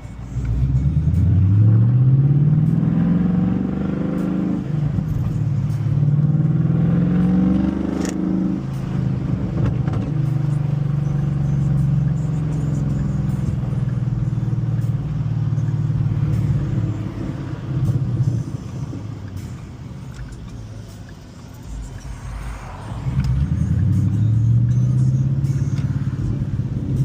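Ford Mustang's Coyote 5.0-litre V8 accelerating through the gears, its pitch rising and then dropping at each upshift. It settles into steady cruising, eases off past the middle, then pulls again near the end.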